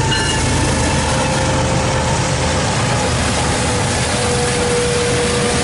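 Train with a diesel locomotive running: a steady low engine rumble under the broad rushing noise of the train, with a few faint steady tones.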